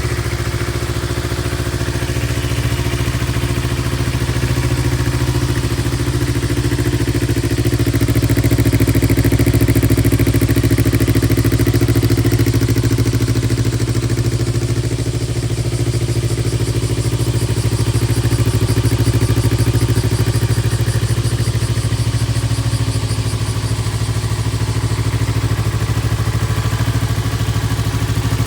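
Yamaha MT-25's parallel-twin engine idling steadily through an IXIL full exhaust system, growing slightly louder for a few seconds about eight seconds in.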